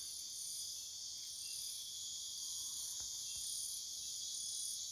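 Insects chirring outdoors, a steady high-pitched trill with a higher chirp repeating about once a second.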